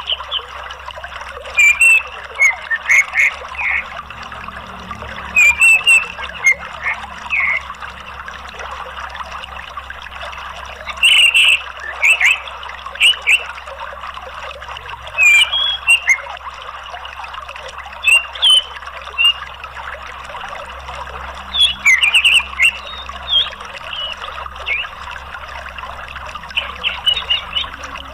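Steady rush of running water with clusters of short, sharp bird chirps every few seconds.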